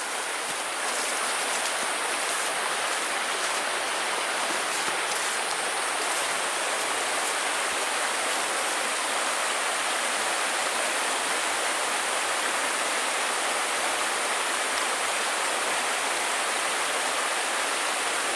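Mountain river flowing over rocks: a steady, even wash of water noise that grows slightly louder about a second in.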